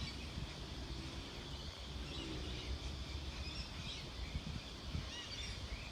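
Outdoor ambience: a steady low rumble, with faint bird chirps above it and a quick run of short chirps near the end.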